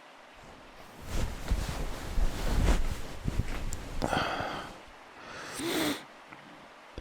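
Close-up rustling and rumbling against the microphone for about three seconds, then two breaths, the second a voiced sigh, over faint steady rain.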